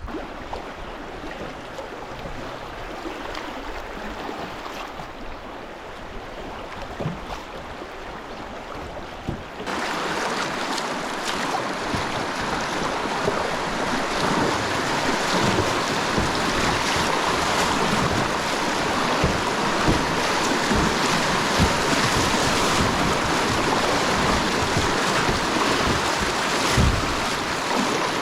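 River water rushing around a kayak, with low thumps of wind buffeting the microphone. The water noise gets suddenly louder about ten seconds in.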